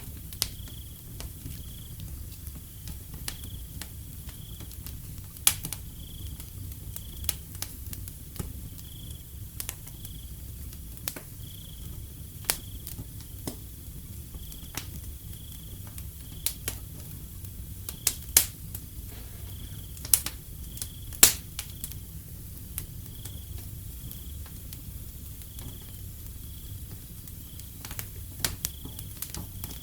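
Wood fire crackling with irregular sharp pops, a few of them louder about two-thirds of the way through, over a low steady rumble. A cricket chirps steadily about once a second.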